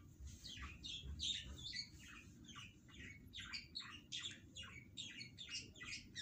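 Small birds chirping busily: a quick run of short, high, falling chirps, several a second, over a faint low rumble.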